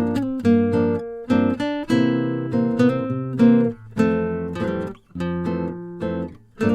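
Background music: strummed and plucked acoustic guitar chords in a steady rhythm.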